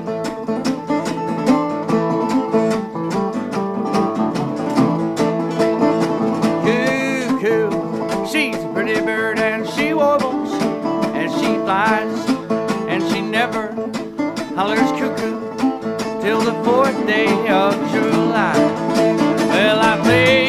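Old-time string band playing an instrumental intro: picked acoustic guitar, with sliding resonator-guitar notes from about six seconds in. A low bass part comes in near the end.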